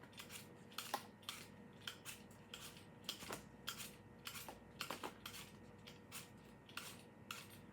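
Apple being peeled by hand with a blade: faint, quick shaving strokes, roughly three a second and unevenly spaced, as strips of skin are taken off lightly.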